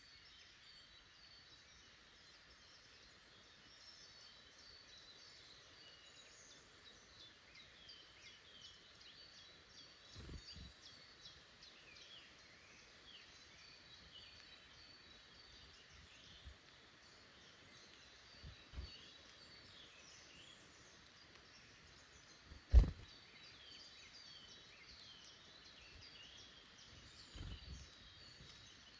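Woodland birds chirping and singing continuously, many short calls overlapping. A few low thumps cut through, the loudest one sharp and sudden about 23 seconds in.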